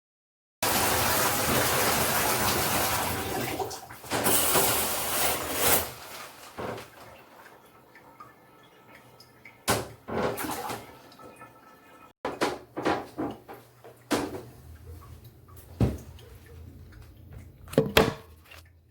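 Water rushing in a bathroom for a few seconds, with a second shorter rush, followed by scattered knocks and clatters of things being handled.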